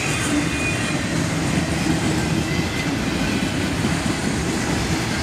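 Freight cars of a long train rolling past, a steady sound of wheels running on the rails.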